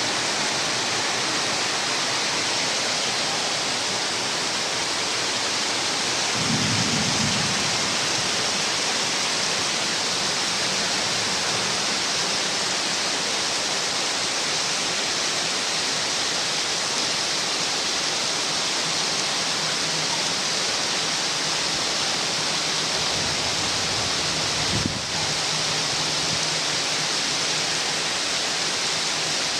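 Heavy rain falling steadily in a dense, even hiss, with a brief low rumble about seven seconds in.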